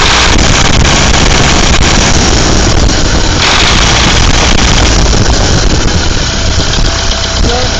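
Warm car engine running loud and close, with the knock that is the subject of the video; its cause has not been found.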